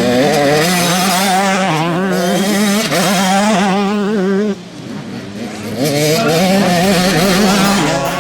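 Motocross motorcycle engines racing, the pitch wavering as riders work the throttle. The sound drops away briefly about halfway through, then builds again as the bikes rev back up.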